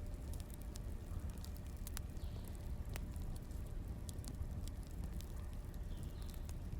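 Firewood burning: a steady low rumble with scattered, irregular crackles and pops.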